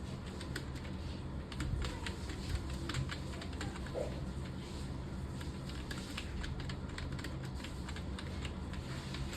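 Typing on a computer keyboard: a fast, irregular run of key clicks that is busiest in the first few seconds and thins out later, over a steady low hum.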